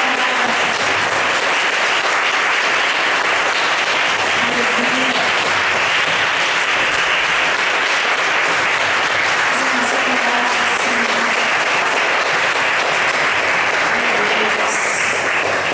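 Congregation applauding steadily, with a few faint voices calling out over the clapping.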